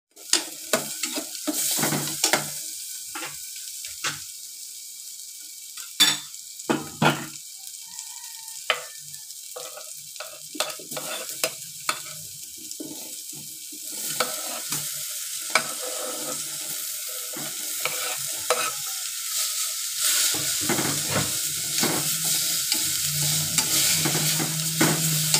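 Garlic and onion sizzling in oil in a stainless steel pot, with a metal ladle scraping and knocking against the pot as it stirs. About halfway through, chicken pieces go in and the sizzling gets louder and fuller.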